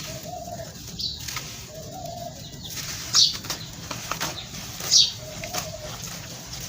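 Gritty crunching of dry sand-cement lumps being crushed by hand, with a louder crisp crunch about every two seconds. A pigeon coos softly in the background a few times.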